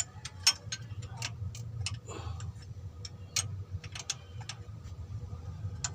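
Irregular sharp metallic clicks and taps, a few a second and sometimes in quick clusters, from hand tools working bolts while a water pump and thermostat housing are fitted to a 4D56 diesel engine, over a steady low hum.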